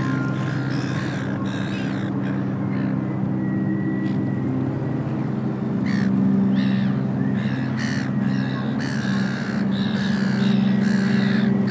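A bird calling repeatedly in short calls, a few early on and a quicker run from about six seconds in and again near the end, over a steady low drone.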